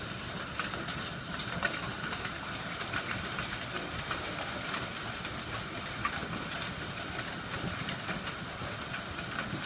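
Heavy downpour of rain and hail: a steady hiss of falling water dotted with many small, sharp ticks of hailstones striking.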